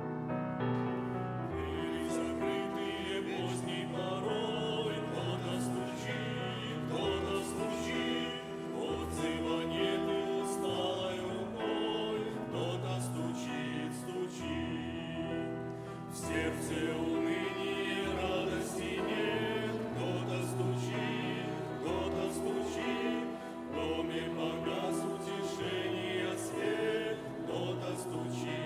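Church choir singing a Christian hymn in sustained harmonised phrases.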